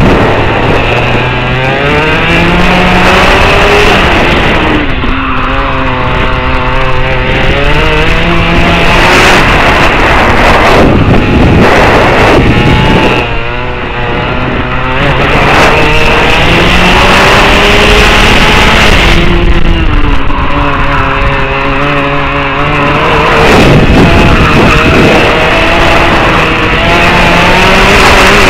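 Go-kart engine running hard and close, its pitch climbing and falling again and again as it accelerates and backs off, with a brief drop in loudness about halfway through.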